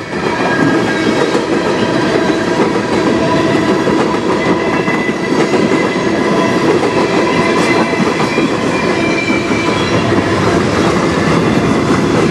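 Freight cars (tank cars, then covered hoppers) of a passing manifest train rolling by at speed: a loud, steady clatter of wheels on rail, with faint steady squealing tones over it.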